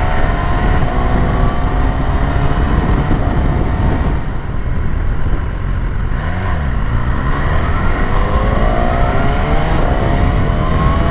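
BMW S1000R inline-four engine pulling hard, its pitch rising steadily, easing off about halfway, then rising again under acceleration, with heavy wind rush on the rider's microphone.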